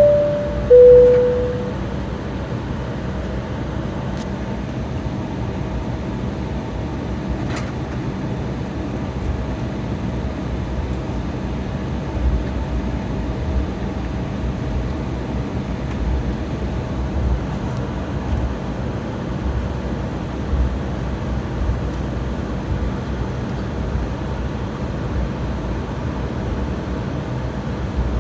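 Airliner cabin chime, two tones, high then low, right at the start. Then the steady rumble of the jet's cabin while taxiing, with a few soft low thumps partway through.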